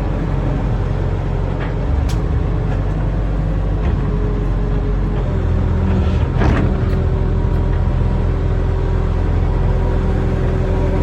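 Barge-mounted hydraulic excavator's diesel engine running steadily under working load. Its drone steps up about two and five seconds in as the hydraulic load changes, with a brief sharp noise about six and a half seconds in.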